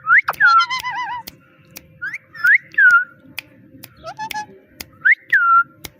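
Pet parrot whistling and chattering: short whistles that swoop up and then down, coming in quick pairs, with a burst of warbling chatter about half a second in and another around four seconds in. Sharp clicks are scattered through.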